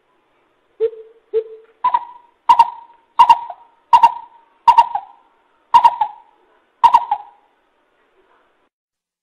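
A coucal calls a series of hollow hoots. It gives two lower hoots, then about seven higher ones at a steady pace of roughly one every 0.7 s, and the series stops about seven seconds in.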